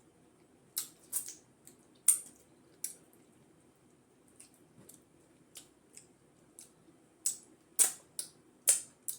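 Wet mouth smacks and clicks from chewing fufu with peanut butter soup, irregular and sharp. A few come about a second in, and a quicker run comes near the end.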